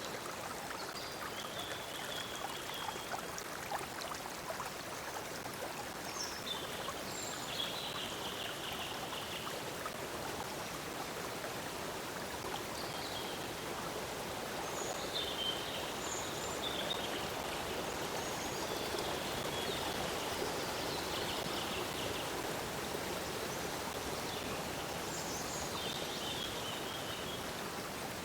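Stream water flowing in a steady rush, with short high bird calls now and then.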